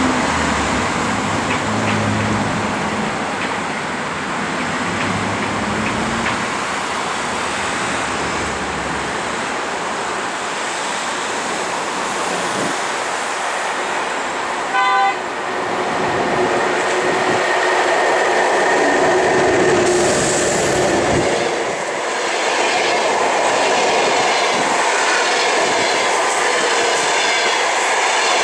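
An EP1M electric locomotive hauling a passenger train, approaching and passing with a steady rolling rumble. There is one short horn blast about halfway through, then the clickety-clack of the coaches' wheels over the rail joints as they go by.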